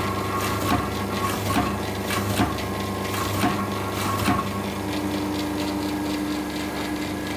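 Pearl-attaching machine running with a steady motor hum, its press striking about five times roughly a second apart. After the last strike, a little past four seconds in, the strokes stop and the motor keeps humming with a steady whine.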